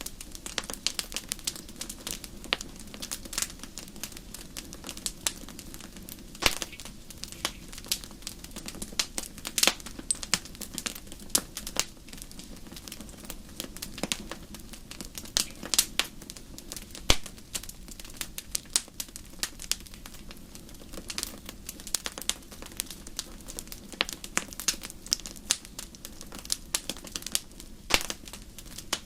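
Campfire crackling steadily, with frequent irregular sharp pops over a low, even hush.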